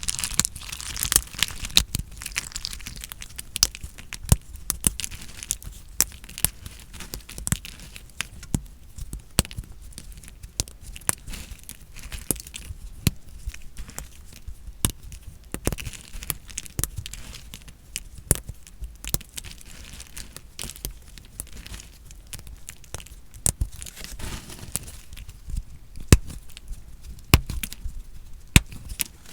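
Knife cutting through dry soap, a dense run of crisp crackles and snaps.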